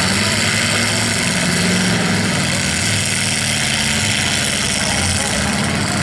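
Engines of several demolition derby cars running as they drive about the dirt arena: a steady, loud mix of engine noise with no distinct crash.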